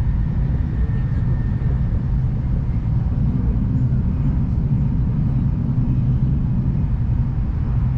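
Shinkansen passenger car interior noise as the train runs: a steady, low rumble from the running train, heard inside the cabin.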